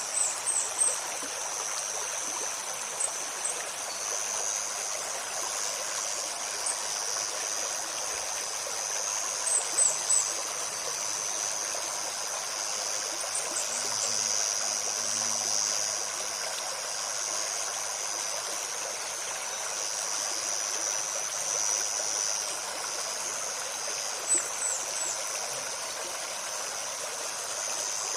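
Shallow stream babbling steadily over a continuous high insect drone. Brief high bird chirps come in short clusters a handful of times.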